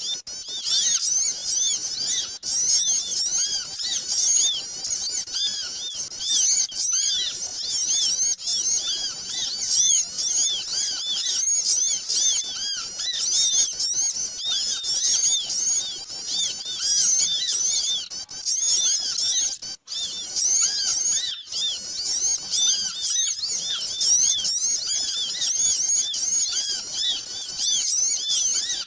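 Many small birds chattering all at once in a noisy, unbroken racket of rapid, high, overlapping chirps: a bird-luring (pikat) call recording for small birds.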